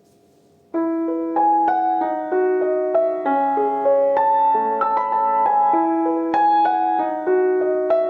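Soft background piano music, slow notes and chords, beginning a little under a second in.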